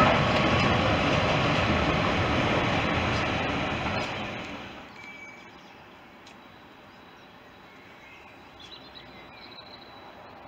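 Railway coaches rolling past close by as a diesel-hauled train pulls out of the platform, a steady loud rumble that fades slightly and cuts off about four and a half seconds in. After that, a quiet outdoor background with a few faint bird chirps.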